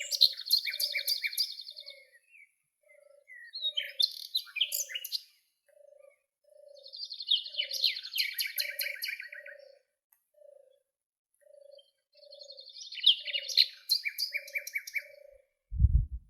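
Songbirds singing in bursts of high, rapid trills and twittering, four phrases a few seconds apart. Underneath, a low call repeats about once a second. A dull thump comes near the end.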